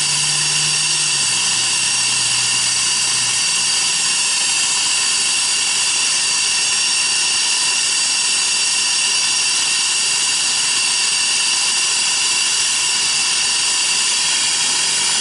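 Oxy-acetylene brazing torch flame hissing steadily on a refrigerant line joint.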